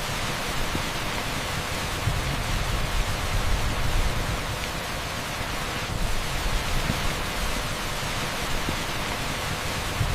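Torrential rain pouring onto an asphalt street: a dense, steady hiss with a low, uneven rumble underneath.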